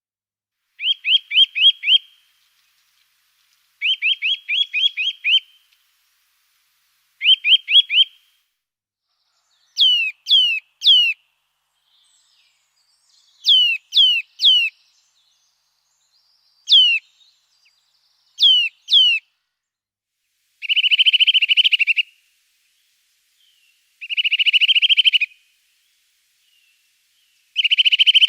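A songbird singing in short phrases with pauses between them. First come runs of quick repeated notes, then sets of two or three whistles sweeping sharply downward, then rapid buzzy trills.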